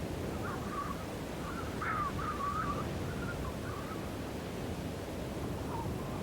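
Steady, deep wind noise of a snowstorm. Over it, during the first four seconds or so, comes a high, wavering sound that rises and falls in short broken strokes, loudest about two seconds in.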